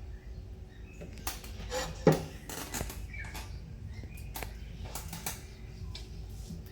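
A run of light clinks and taps from hand-feeding baby caiques, like a feeding spoon or syringe knocking against its dish, the loudest about two seconds in.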